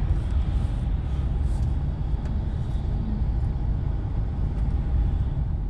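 Articulated lorry's diesel engine running, heard from inside the cab: a steady low rumble.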